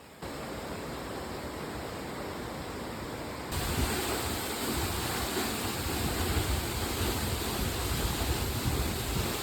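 Waterfall: a steady rush of falling water, stepping up louder about three and a half seconds in.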